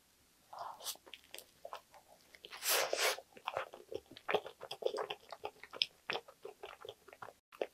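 Close-miked eating of a soft white-bread sandwich: a louder bite about three seconds in, then steady chewing with many small, wet mouth clicks and smacks.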